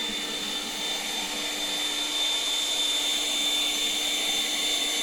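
A small electric motor propelling a small boat runs steadily, giving a high-pitched whine and a lower hum over a rushing hiss.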